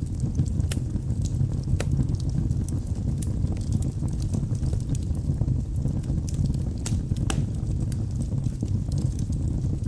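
Wood fire burning in a fireplace: a steady low rumble of flames with scattered sharp crackles and pops from the burning logs, a few louder ones about 2 seconds in and around 7 seconds in.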